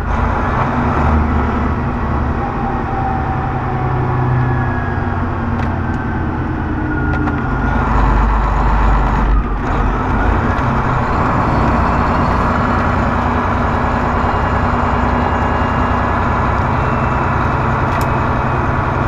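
Semi truck's diesel engine running under way, heard from inside the cab, a steady loud rumble with road noise and the engine note sliding slowly up and down.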